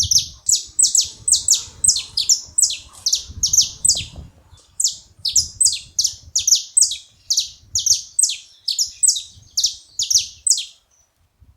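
Saffron finch calling: a rapid run of short, high, downward-sweeping chirps, about three a second, that stops shortly before the end.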